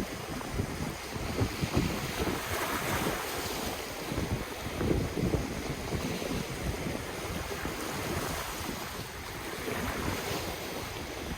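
Ocean waves washing on the shore, with wind buffeting the microphone in low rumbling thumps. The surf swells louder about three seconds in and again near the end.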